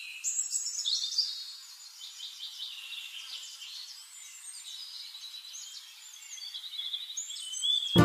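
Several small songbirds chirping and twittering together in high, quick trills and short whistles, with nothing low underneath; a little louder in the first second and again near the end.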